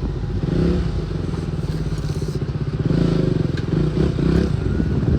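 Motorcycle engine running while riding, its firing pulses coming steadily and evenly.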